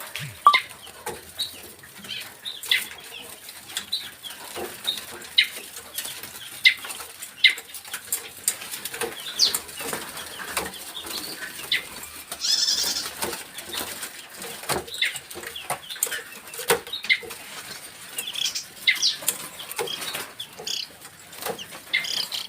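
Decoy birds calling with short chirps and clicks at irregular intervals, with one longer call about halfway through.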